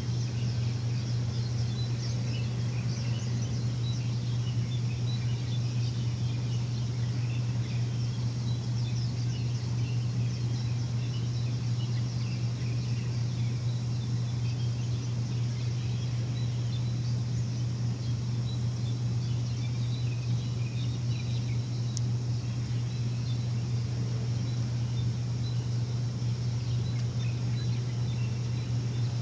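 A steady low machine hum, unchanging throughout and the loudest sound, with birds chirping over it in many short, scattered calls.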